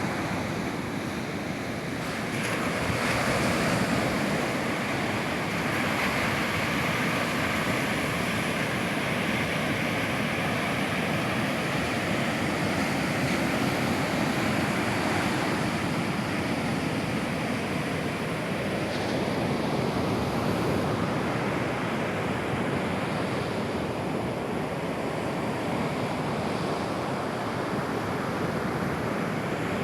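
Sea surf: waves breaking and washing in as a steady rush of noise.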